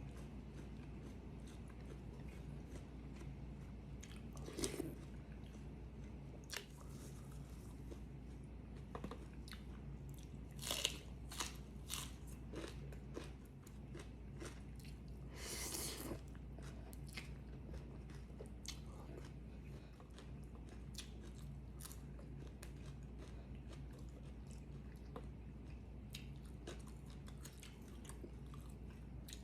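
A person chewing and biting food close to the microphone, with scattered crunchy bites and small clicks, a few louder moments standing out, over a steady low hum.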